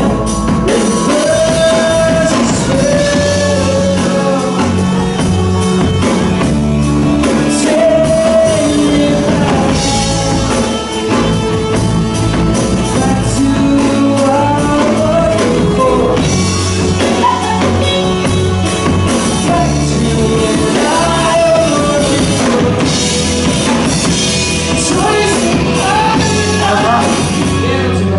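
Live rock band playing a song with a lead singer, guitars, bass and drums through the PA during a sound check; the music stops at the very end.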